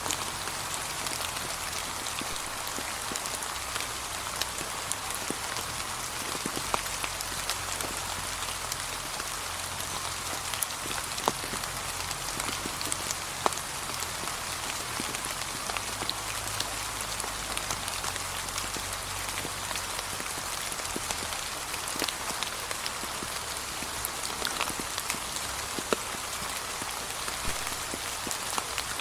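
Steady light rain pattering on fallen leaves, with a constant hiss and scattered sharper drip ticks.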